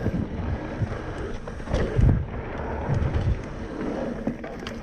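Wind buffeting the microphone over the rumble and rattle of a mountain bike rolling along a dirt trail, with irregular low thumps.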